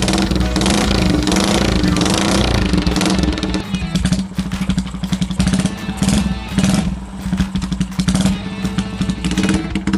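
Chopper motorcycle with a Yamaha Scorpio single-cylinder four-stroke engine and twin-port exhaust running, its firing pulses rapid and even, louder and noisier for the first three or so seconds. Music plays along with it.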